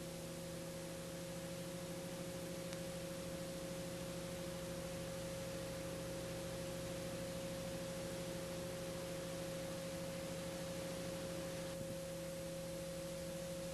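A steady hum made of a few constant tones, the highest and strongest a mid-pitched note, over a faint even hiss.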